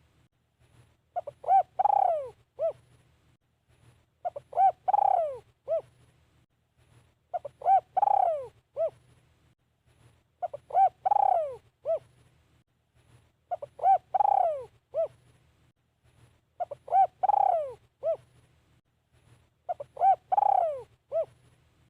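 Spotted dove cooing its three-part call, repeated about every three seconds. Each phrase has a few short coos, then a longer coo that falls in pitch, then a short closing coo.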